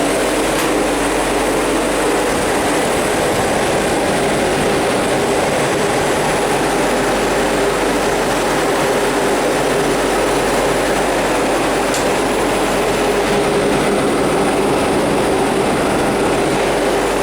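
Steady, loud whirring hum of refrigeration machinery running, fans and compressor, holding unchanged throughout.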